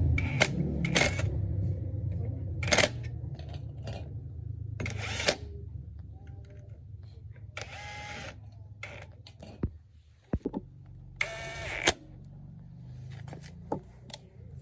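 A small old gasoline engine's running fades to a low hum, with scattered sharp metallic clicks and clacks and two short noisy bursts, about eight and eleven and a half seconds in.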